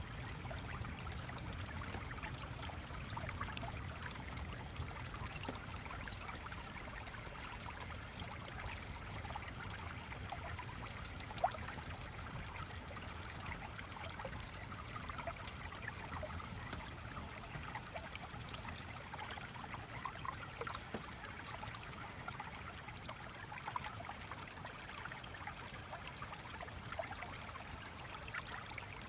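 A stream flowing and trickling steadily, with fine scattered ticks and one sharp click about a third of the way in.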